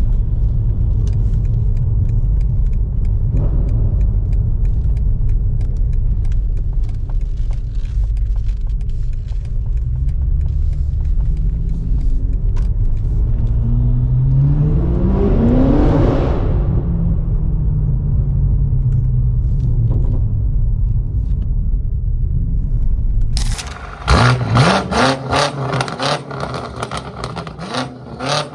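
BMW M8 Competition's twin-turbo V8 through an Akrapovic exhaust, driving with a steady low rumble. About fourteen seconds in, the revs climb sharply for a couple of seconds, then settle back. Near the end the sound changes abruptly to a brighter, rapid crackling over rising revs.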